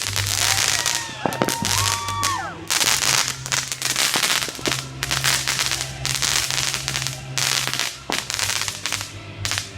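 Fireworks going off in rapid crackling and popping volleys, with a few rising whistles in the first couple of seconds. A low steady hum that shifts pitch runs underneath.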